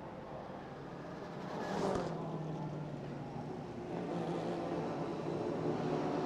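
Racing car engines running at low speed behind the safety car, a steady drone that grows gradually louder as the cars come closer.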